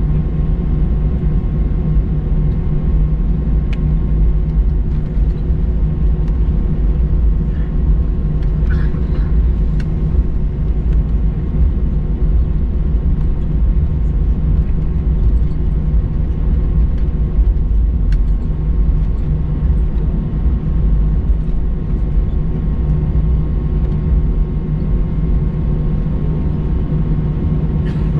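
Cabin noise of an Airbus A321-200 taxiing: a steady low rumble with a constant hum, and a few faint clicks.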